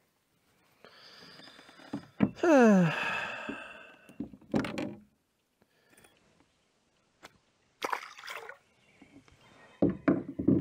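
A man's long, falling groan of disappointment, about two and a half seconds in, after a fish he hoped was a big shellcracker turns out otherwise. Scattered knocks and thunks sound before and after it.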